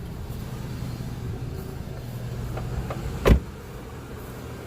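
2000 Chevrolet Cavalier's 2.2 L four-cylinder engine idling steadily while the oil warms up. A single loud thump comes a little past three seconds in.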